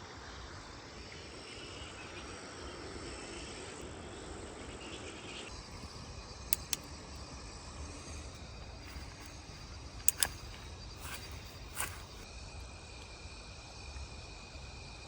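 Insects chirring steadily as a high, even drone, broken by a few sharp cracks: two about six and a half seconds in, two about ten seconds in and one near twelve seconds.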